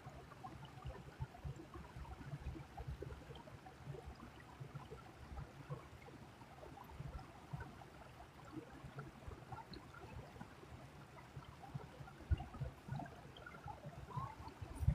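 Faint creek water trickling and gurgling over a low rumble.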